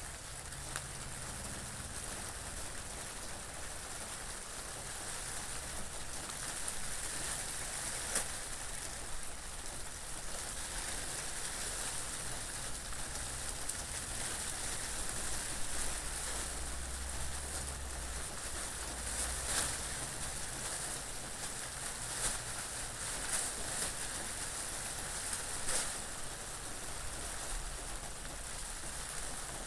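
Steady rain falling, with a low, shifting rumble of wind beneath it and a few brief louder spikes.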